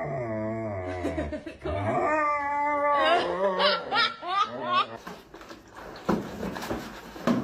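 A dog howling and whining in long, wavering cries that break into quick yelping pulses, typical of a dog protesting a bath. Scuffling follows, with a sharp knock near the end.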